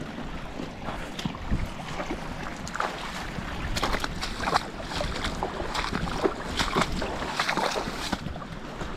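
Strong, gusty wind buffeting the microphone, rising and falling in irregular flurries.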